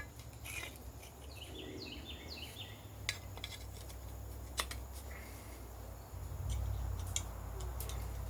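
Light metallic clicks and taps as the handle pieces and collar of an old meat cleaver are fitted onto the blade by hand, a few sharp ticks scattered through it. A low rumble in the background grows louder about six and a half seconds in.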